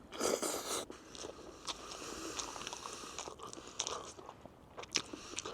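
Crunchy food being bitten and chewed close to the microphone: a loud crunch in the first second, then scattered crisp cracks as the chewing goes on.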